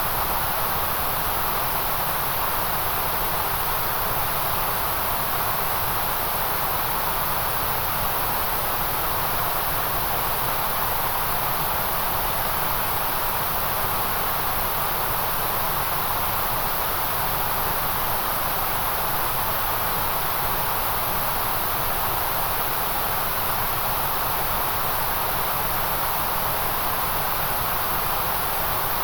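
White noise: a steady, even hiss that does not change.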